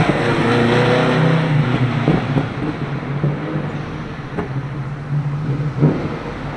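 A car engine running at low revs, a steady low hum that fades and returns in stretches, with a few sharp knocks.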